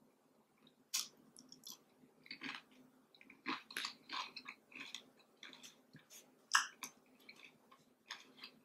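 A person chewing crispy bacon: a string of short, irregular crunches and mouth clicks.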